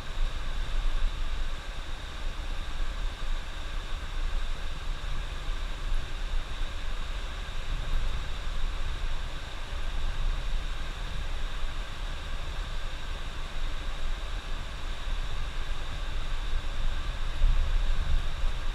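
Coach bus driving on the highway, heard from inside the cab: a steady low engine drone with road and tyre noise.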